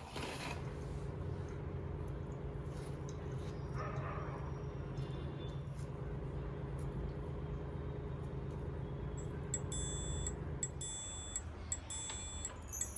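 A steady mechanical hum, like a small motor or fan running. In the last few seconds it gives way to a few short, light clinks with a ringing tone.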